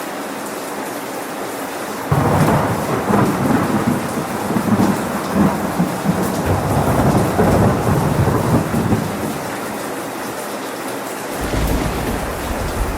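Steady rain falling, with thunder breaking in suddenly about two seconds in and rumbling low for several seconds before fading. A second, lower rumble of thunder starts near the end.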